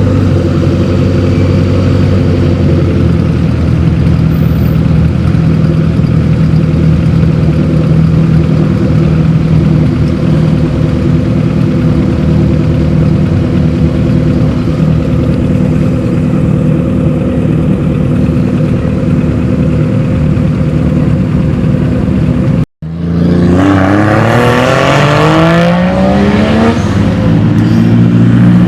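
Car engine running steadily at low revs. After an abrupt cut near the end, an engine revs up with rising pitch as a car accelerates away.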